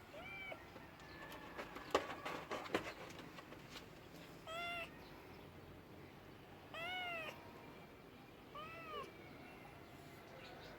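A domestic cat meowing four times in short calls, each rising and falling in pitch. A quick cluster of sharp clicks or knocks about two seconds in is the loudest moment.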